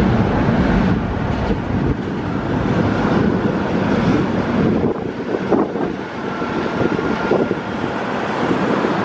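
Express train rolling along the station tracks, a steady rumble mixed with wind on the microphone; the deepest part of the rumble eases about a second in.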